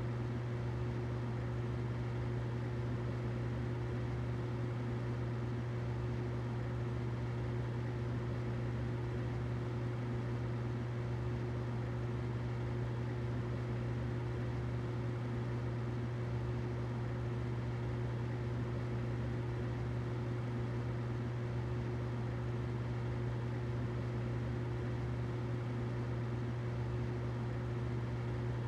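Humidifier running steadily: an even low hum with a fainter higher tone over a soft hiss, unchanging throughout.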